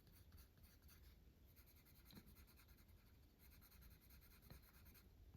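Faint scratching of a coloured pencil shading on paper, in stretches of strokes.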